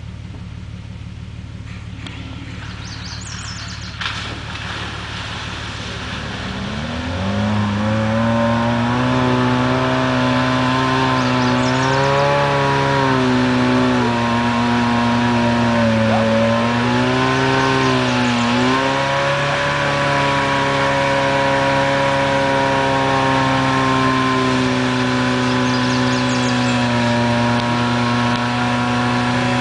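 Suzuki Samurai's four-cylinder engine working under load as it ploughs through deep muddy water. It is faint at first, the revs climb and it grows loud about seven seconds in, then the note rises and falls a few times before holding fairly steady.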